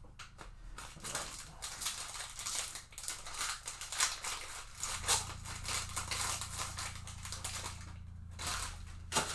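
Trading cards and their pack wrappers being handled, with quick, irregular rustling and scraping as cards are slid and sorted. A low steady hum comes in about halfway through.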